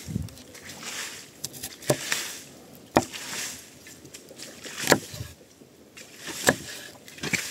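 A series of sharp knocks or strikes, five in all, irregularly spaced one to two seconds apart, over a faint hiss.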